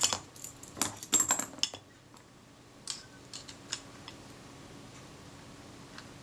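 Small metal clicks and clinks of the shutter's retaining ring and tools being worked onto a Kodak Retina IIIc camera body: a quick cluster of taps in the first two seconds, then a few scattered faint ticks.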